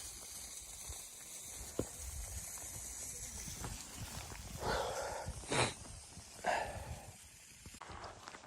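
Footsteps crunching in deep snow, three steps about a second apart near the middle, over a steady hiss of wind that drops off suddenly near the end.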